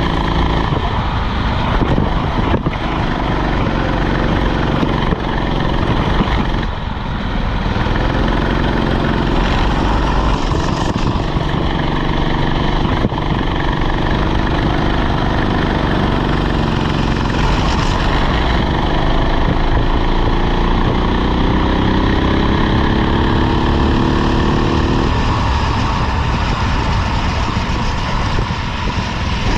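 Rental go-kart engine running under racing load, its pitch climbing on the straights and dropping as it eases off for corners, with a long rising pull near the middle before it backs off.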